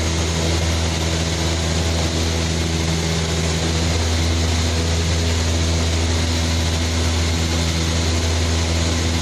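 Cessna 172's piston engine and propeller running in a steady, loud, unchanging drone.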